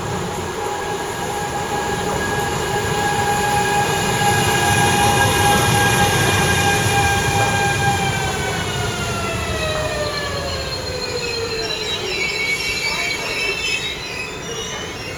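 Electric train running through the station with a steady whine of several stacked tones. About eight seconds in, the whine falls smoothly in pitch as the train slows, breaking into scattered high squeals near the end, over the rumble of wheels on track.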